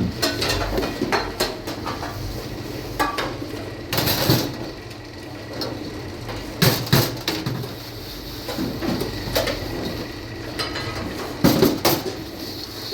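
Dishes and cutlery clattering: irregular knocks and clinks of crockery and metal being handled, with a few louder knocks around four, seven and twelve seconds in.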